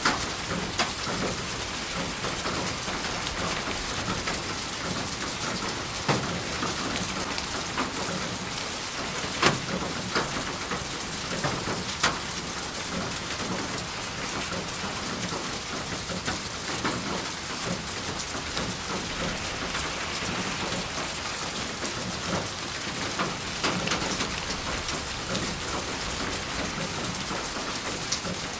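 Steady rain falling on a surface, with sharper single drop hits standing out every few seconds.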